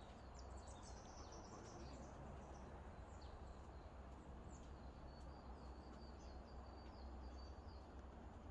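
Faint outdoor ambience: small birds giving short, high, falling chirps over a low steady rumble.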